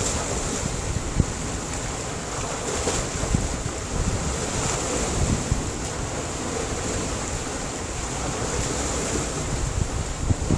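Sea surf washing against a rocky shore: a steady rush of breaking waves, with a few brief sharper splashes.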